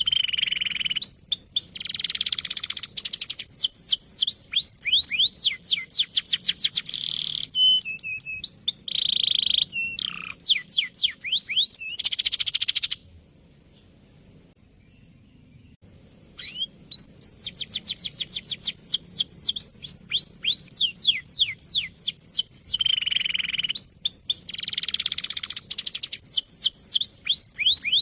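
Male domestic canary singing long, rapid rolls of falling whistled notes, one trill run straight into the next. The song stops for about three seconds in the middle, then starts again.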